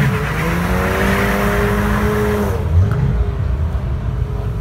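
A BMW hatchback's engine accelerating away. It is held at steady revs for about two and a half seconds, then drops off and fades as the car moves away.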